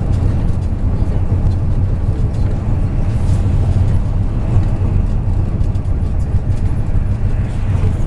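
MAZ 103 bus underway, its diesel engine and road noise heard from inside the cabin as a steady low rumble.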